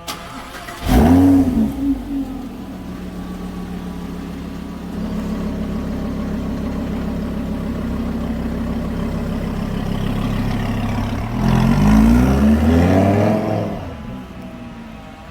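Lamborghini Huracán's V10 engine starting about a second in, flaring up in revs and settling to a steady idle. Near the end it is revved once, the pitch climbing and falling back, before the level drops.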